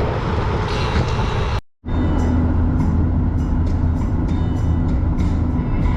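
Steady low rumble of a moving vehicle, broken by a brief cut to silence a little under two seconds in, after which the rumble carries on with faint scattered clicks.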